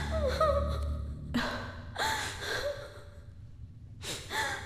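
A woman sobbing, with gasping, wavering cries in three bouts.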